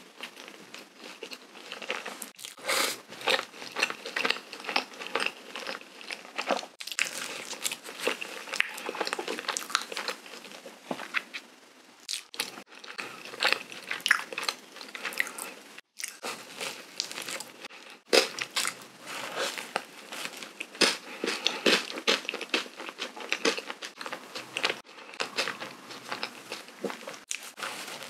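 Close-miked ASMR eating of powdered-sugar cream-filled donuts: sticky, wet chewing and lip smacks of soft dough and whipped cream, full of small irregular clicks, breaking off briefly a few times.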